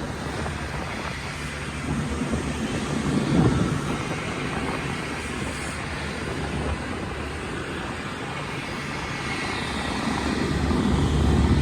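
Steady noise of an airliner at the airport, a low rumble with a hiss, getting louder near the end.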